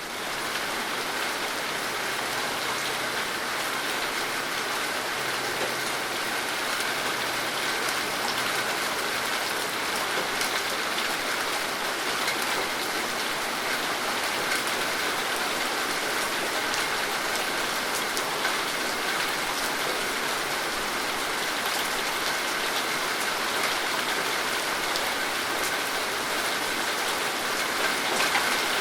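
Steady rain falling, an even hiss of many drops with faint scattered ticks of individual drops striking a surface.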